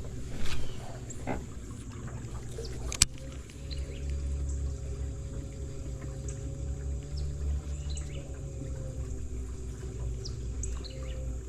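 River water splashing and trickling over a steady low hum, with a sharp click about three seconds in.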